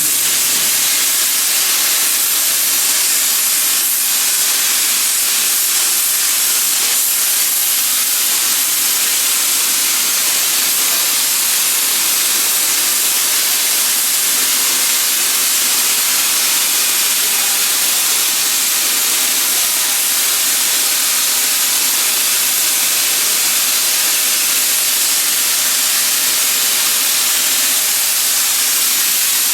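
Cutting torch on a portable CNC cutting machine hissing loudly and steadily as it cuts, with a faint hum beneath.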